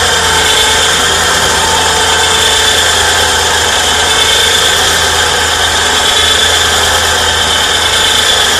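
Battery-powered ATV winch running steadily under load, its electric motor and gears whining as it reels in cable to pull a truck up a steep incline.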